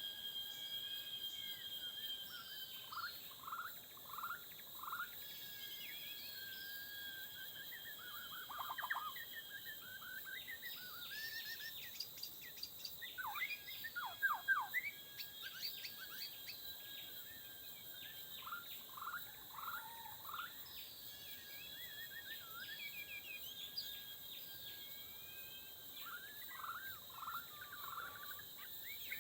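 White-rumped shamas calling in bursts: short falling whistles repeated several times, mixed with sharp ticking notes, over a steady high drone of forest insects.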